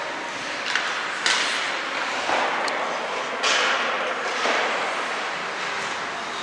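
Ice hockey skates scraping and stopping on the ice in a youth hockey game, several sudden hissing scrapes that fade quickly. They sit over steady arena noise, with one sharp click like a stick or puck strike.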